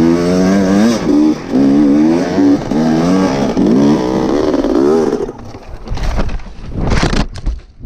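Motorcycle engine running, its pitch repeatedly rising and falling with the revs for about five seconds, then dropping away to wind noise with a short loud rush about seven seconds in.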